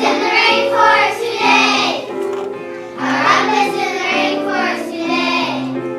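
A group of children singing a song together over a musical accompaniment, in phrases of about a second with short breaths between.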